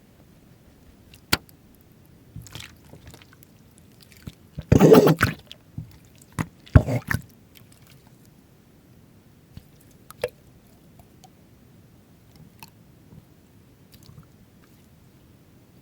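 Slime being handled by hand: scattered sticky clicks and pops, with a wet squishing burst about five seconds in and another shorter one about seven seconds in.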